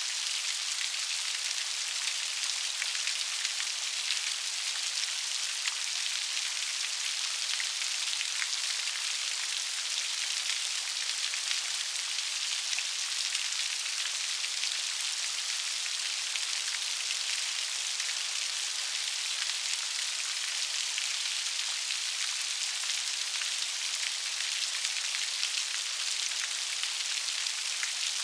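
Steady rain falling, a dense even hiss of raindrops with fine pattering ticks and no low rumble.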